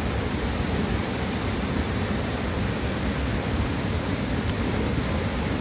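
Swollen floodwater of a river rushing steadily, an unbroken noisy wash heaviest in the low end.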